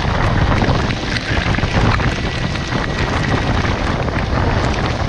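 Wind rushing over the microphone on a moving Kawasaki Versys-X motorcycle, with the engine and road noise as a steady low rumble underneath.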